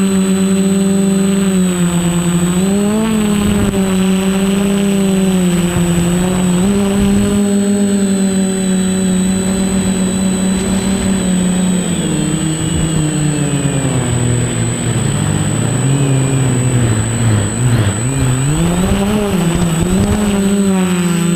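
Quadcopter's electric motors and propellers whining steadily, the pitch sinking from about twelve seconds in as the throttle comes off, wavering low, then climbing back near the end. A thin, steady high-pitched whine runs under it throughout.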